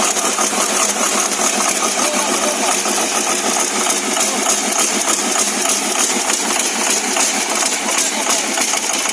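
Six-cylinder generator engine running steadily.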